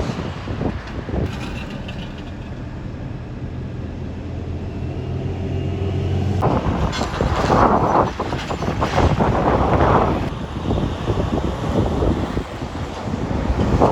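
Garbage truck's diesel engine running steadily at a low, even hum. About six seconds in it gives way to louder, rougher, pulsing mechanical noise.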